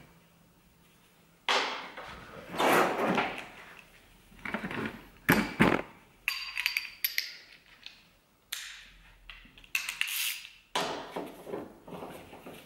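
Hand tools being handled on metal: a string of irregular clanks and rattles, the loudest a sharp knock about five seconds in.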